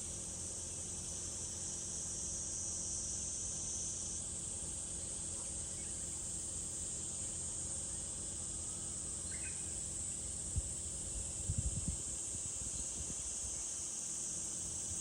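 Chorus of summer cicadas buzzing steadily at a high pitch, one voice in the chorus dropping out about four seconds in. A few soft low thumps come about two-thirds of the way through.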